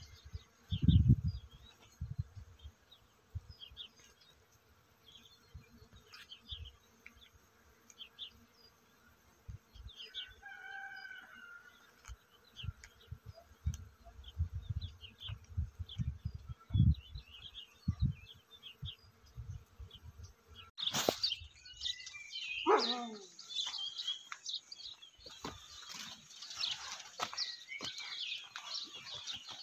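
Small birds chirping, with scattered short calls that thicken into a busy chorus of chirps about two-thirds of the way in. Low thumps and rumbles run under the first part, and a sharp click is followed by a quick falling call about two-thirds through.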